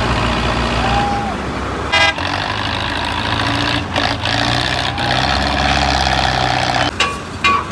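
Heavy vehicle engine running with a steady low rumble, with a few short high tones and brief horn toots, two of them near the end.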